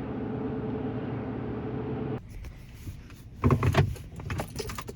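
Steady engine and road hum inside a truck cabin, which stops abruptly a little over two seconds in. It is followed by a short clatter of knocks and rattles, with keys jangling.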